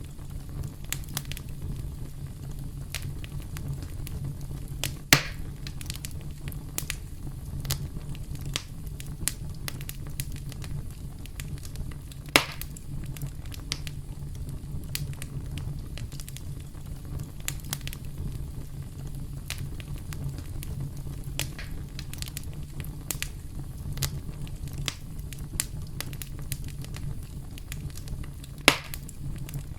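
Campfire crackling: a steady low rumble with frequent small crackles and three louder pops spread through it.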